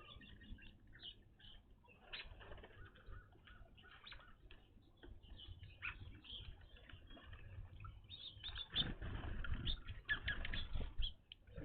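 Evening grosbeaks giving short, repeated chirping calls at a feeder. A louder flurry of wing flutters and calls comes from about eight and a half to eleven seconds in.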